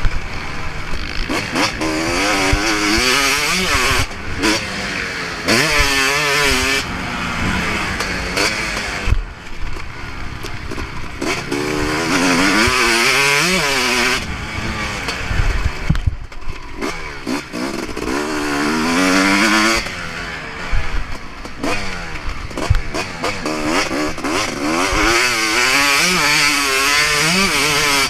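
Motocross bike engine being ridden hard, its revs climbing and dropping again and again through the gear changes, over a steady hiss and with a few sharp knocks along the way.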